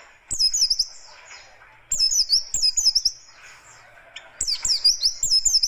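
Yellow-breasted white-eye (pleci dada kuning) singing its harsh, fast 'tembakan' song: three quick bursts of high, rapidly repeated descending notes with short pauses between them.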